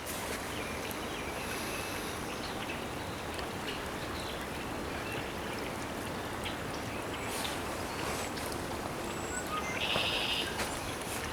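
Steady rushing wind of a winter snowstorm, with a few faint bird calls over it and one short buzzy call about ten seconds in.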